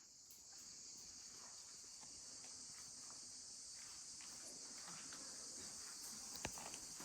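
Steady, high-pitched insect chorus, with one sharp click near the end.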